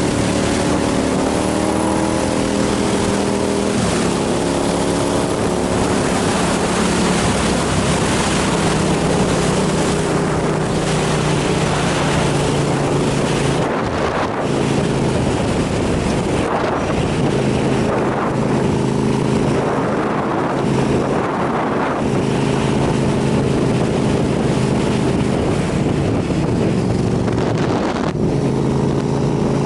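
Motorcycle engine running under way, its pitch shifting several times with throttle and gear changes, over heavy wind rush on the microphone.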